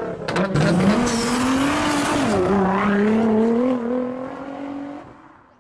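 Car engine revving in an intro sound effect: a few sharp clicks, then the engine note rises, dips about two seconds in, climbs slowly again and fades out near the end.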